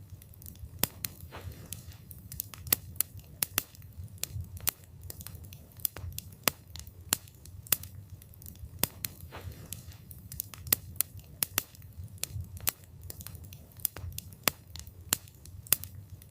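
Wood campfire burning, with sharp, irregular pops and snaps from the burning wood, several a second, over a steady low rumble of flames.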